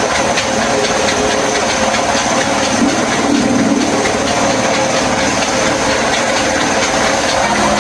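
Engine-driven rice-husking mill running, a loud, steady mechanical drone.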